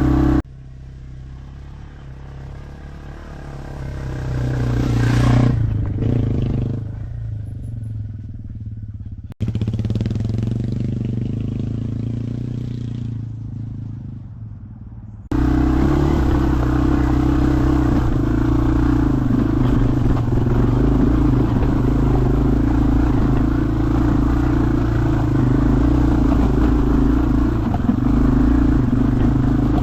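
Yamaha TW200's single-cylinder engine running. For the first half it is quieter and breaks off abruptly twice. About halfway through it jumps to a louder, steady run, the bike under way on the trail.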